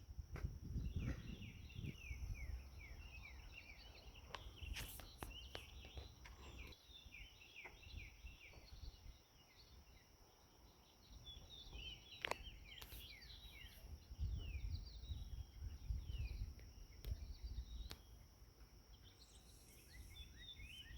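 Small songbirds chirping and twittering: many short, quick, downward chirps in scattered bunches, over a steady high-pitched whine. Low rumbling comes and goes, stronger near the start and in the last third.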